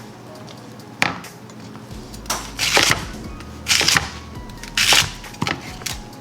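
Knife cutting through a fennel bulb and its stalks on a cutting board: about six sharp, crunchy cuts, roughly a second apart.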